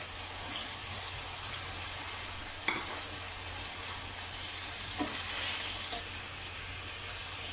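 Chicken pieces and chopped tomatoes sizzling in hot oil in a metal kadhai while being stirred with a wooden spatula, a steady frying hiss. A sharp knock comes about two and a half seconds in, and a fainter one about five seconds in.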